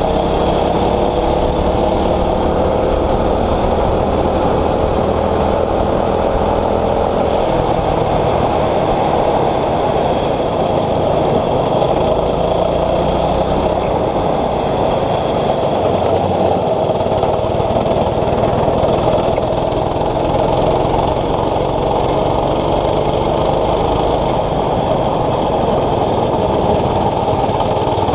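A 6.5 hp kart engine running under race load, its pitch climbing over the first several seconds as it accelerates, then holding fairly steady.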